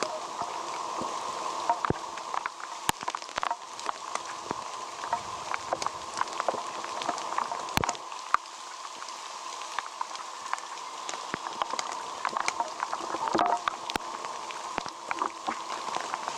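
Steady rain falling, with many irregular sharp ticks of single drops striking close by.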